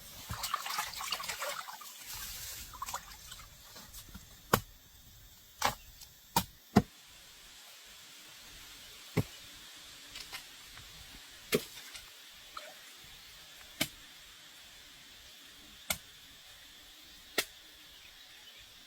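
Rustling and handling noise, then a series of single sharp knocks, one every second or two, with a faint steady background.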